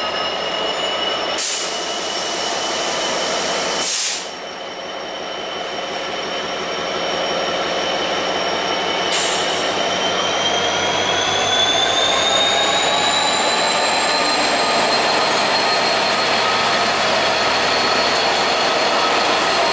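A train moving through the station with a high-pitched wheel squeal that rises slowly in pitch during the second half. Three short sharp clicks come about 1.5, 4 and 9 seconds in.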